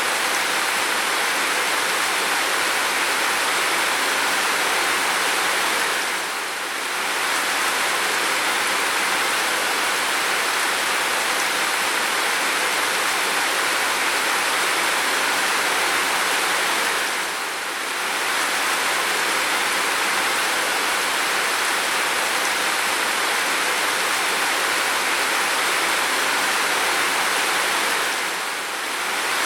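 Steady heavy rain, an even hiss, dipping briefly in level three times about eleven seconds apart.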